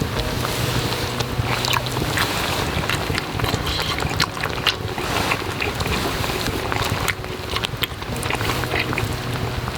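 Strong wind blowing, with scattered sharp clicks and crackles through it.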